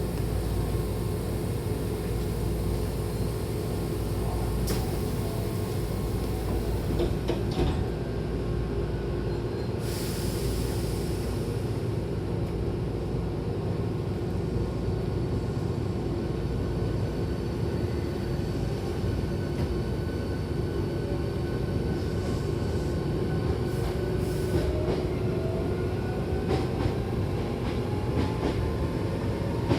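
Hankyu Kyoto Line electric train running, with a steady rumble of wheels and motors and a brief hiss about ten seconds in. A whine climbs steadily in pitch over the last several seconds as the traction motors speed up.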